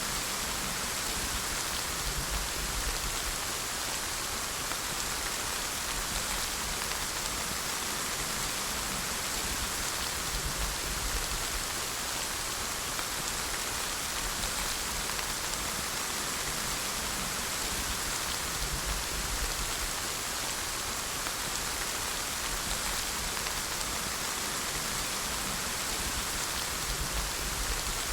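Steady rain falling and pattering on a surface, an even hiss with fine drop crackle and no letup.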